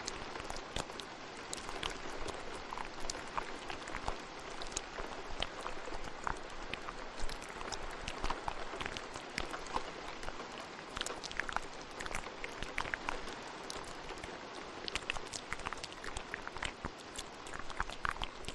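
Steady rain with many short, wet clicks and pops scattered through it: layered ASMR mouth sounds over a thunderstorm recording.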